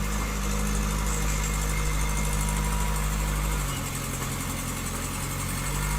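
Engine of a construction machine running steadily, easing off a little over halfway through and picking up again near the end.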